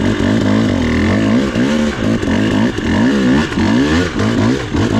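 Dirt bike engine revving up and down over and over in quick throttle blips, about twice a second.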